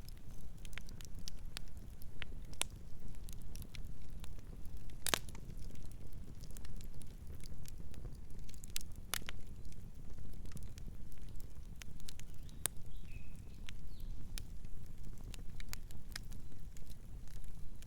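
Wood campfire crackling, with irregular sharp pops and two louder snaps about five and nine seconds in, over the low steady rumble of the flames.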